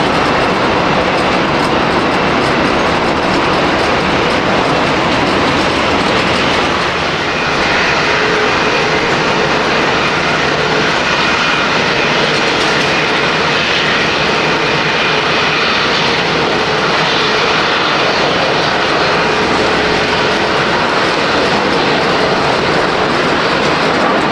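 Jet airliner engines running close by: a loud, steady roar, with a whining tone coming in over it about seven seconds in.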